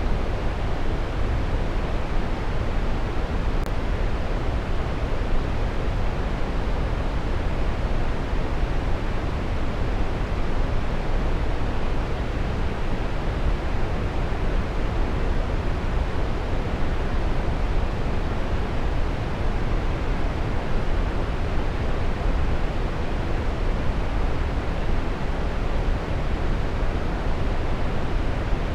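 Waterfall rushing steadily: an even, unbroken wash of falling water, heaviest in the low end.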